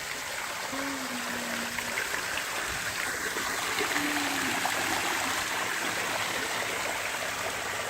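Water falling steadily over an artificial waterfall: an even, continuous splashing hiss.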